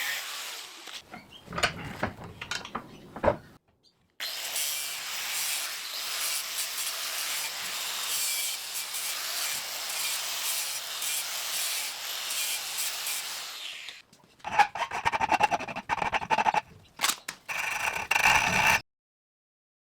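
Metalworking tool sounds in separate short clips: a few sharp knocks, then about ten seconds of steady hissing, then a tool whine with rapid clicking that stops suddenly near the end.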